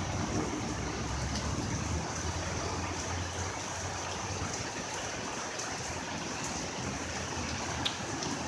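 Heavy rain pouring down steadily, an even hiss of falling water with one brief tick near the end.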